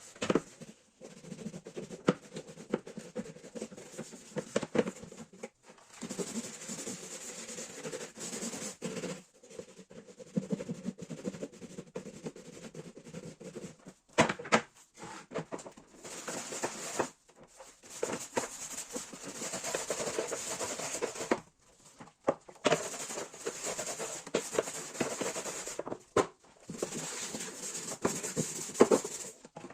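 Household handling sounds: clicks, light knocks and rubbing of objects being moved and wiped, in short stretches that start and stop abruptly every few seconds.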